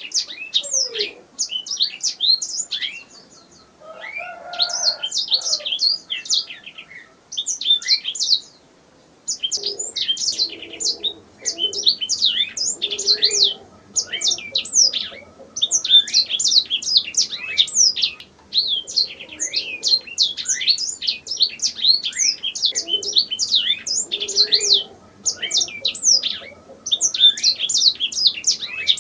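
Domestic canary singing: fast, high chirps and trills strung into long phrases, with short pauses between them.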